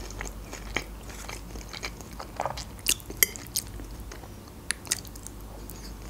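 Close-miked chewing of Caesar salad, crisp lettuce crunching in the mouth as short crackles, thickest about three seconds in and again near the five-second mark.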